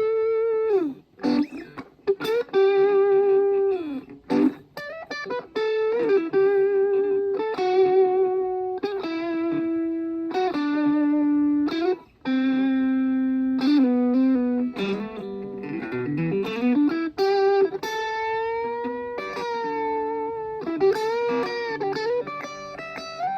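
Washburn Sonamaster electric guitar played in single-note melodic lines, with long sustained notes, slides and string bends.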